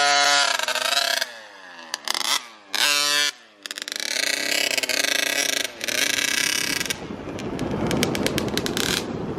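Dirt bike engine revving in several bursts, its pitch rising and falling with each blip of the throttle. Near the end it gives way to a rougher, noisier running sound with rapid ticking.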